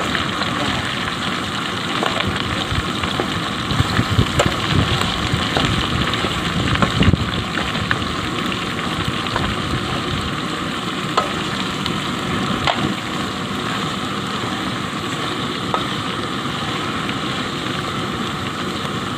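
Chicken sizzling as it is stir-fried in a pan, with occasional clicks and knocks from the stirring ladle, heavier for a few seconds about four to seven seconds in.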